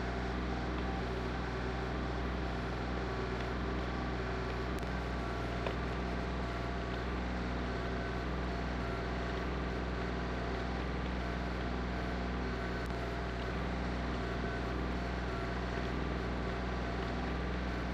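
Engine of a tractor with a backhoe running steadily while digging out the rain-garden hole, with no marked revving or pauses.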